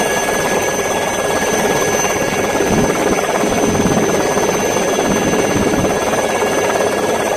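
Helicopter running steadily: a dense, even rotor and engine noise with a steady high whine over it.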